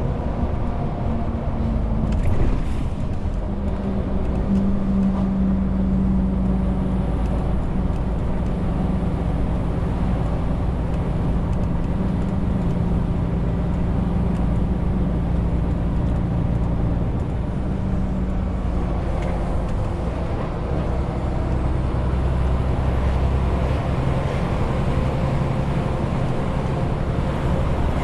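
Renault T520 truck's diesel engine running under a 40-tonne load, a steady low drone with its note shifting up and down. A brief sharp knock comes about two seconds in, and the note drops deeper about two-thirds of the way through.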